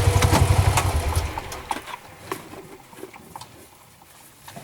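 A farm vehicle's engine idling with a steady rapid low pulse, which dies away about a second and a half in, as if switched off, leaving only faint scattered clicks.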